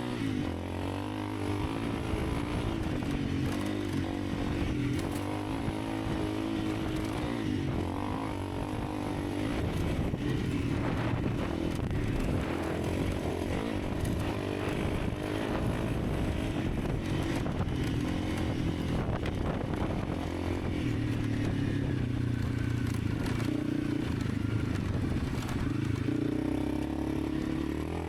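Honda CRF300 Rally's single-cylinder engine running while the bike is ridden, its engine note steady with small shifts in pitch, under wind and road noise.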